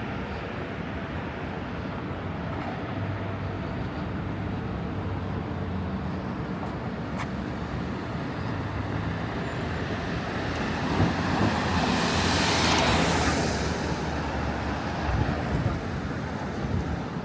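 City road traffic: a steady low engine hum, with one vehicle passing close by. Its engine and tyre noise swells to a peak about two-thirds of the way through, then fades.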